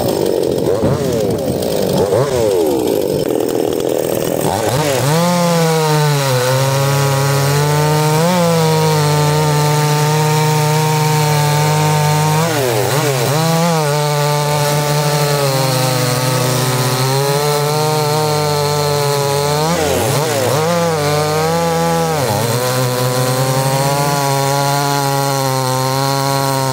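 Two-stroke chainsaws running at high revs while cutting wood. The engine note holds high and dips and recovers several times as the saw is loaded in the cut. In the first few seconds more than one engine pitch glides and crosses.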